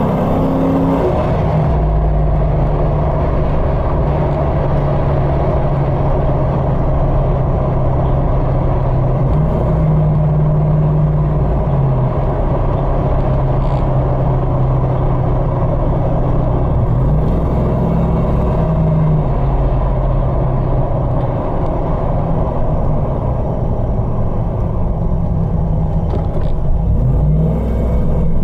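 2011 5.7-litre VVT Hemi V8 in a 2007 Jeep Wrangler JK Unlimited, heard from inside the cabin while driving: a steady low engine drone over road noise. Its pitch shifts up and down a few times as the engine speed changes.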